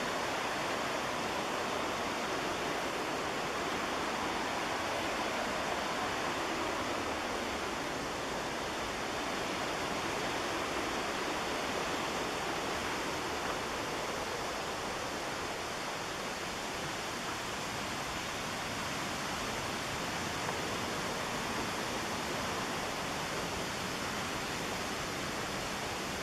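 Steady rush of the McKenzie River's white water, an even roar that does not change.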